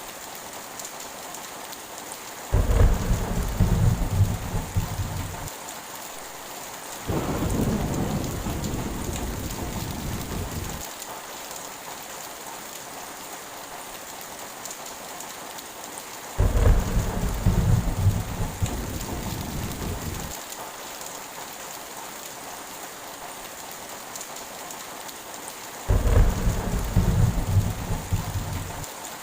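Heavy rain falling steadily, with four rolls of thunder rumbling over it, each lasting a few seconds and starting suddenly: the first a few seconds in and the last near the end.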